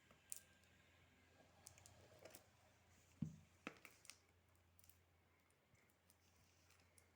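Faint, scattered clicks and taps from handling cardboard packaging as an earphone box is opened, with a small thump about three seconds in.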